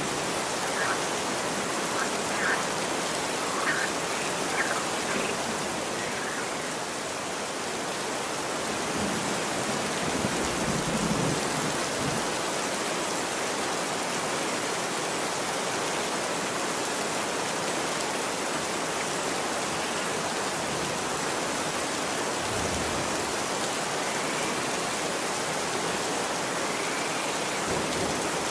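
Steady rain falling on a street. A low rumble swells briefly about ten seconds in.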